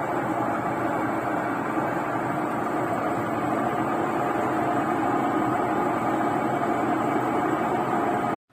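Centrales Aqua Saver washing machine running with a steady mechanical noise from its transmission, which the repairer judges to be bad. The noise cuts off suddenly near the end.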